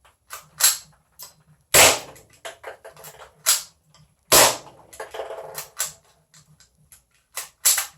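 Gas blowback Glock 18C airsoft pistol firing single shots at uneven intervals, each a sharp crack of the gas charge and the slide cycling, with lighter clicks in between.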